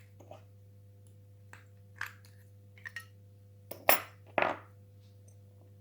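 Small die-cast toy lorry being handled and worked apart: a scatter of light clicks and knocks of small metal and plastic parts, with two louder, slightly longer noisy sounds about four seconds in. A faint steady hum sits underneath.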